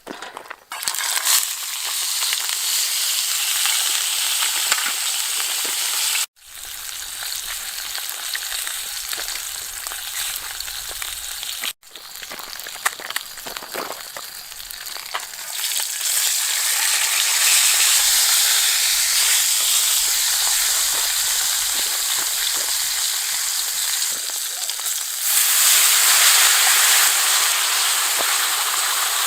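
Whole fish sizzling steadily in hot olive oil in a pot, searing before the water goes in. The sizzle breaks off suddenly twice and is louder in the second half.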